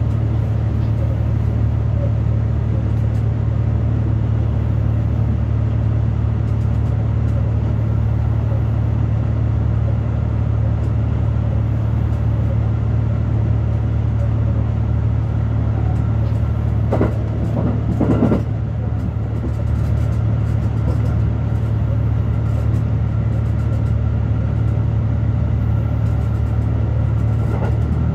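HB-E300 series hybrid railcar running along the track, heard from the driver's cab as a steady low hum. A brief louder noise comes about seventeen seconds in.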